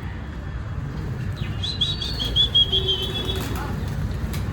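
Budgies chirping in a short run of quick, slightly falling notes in the middle, over a steady low background rumble.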